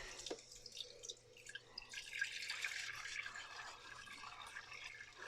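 Faint wet dripping and squishing of soft, creamy rebatched soap being worked, with many small irregular ticks.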